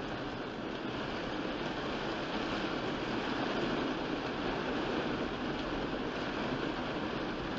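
Steady hiss of heavy rain and a car's tyres running through standing water on a flooded road, slowly growing louder.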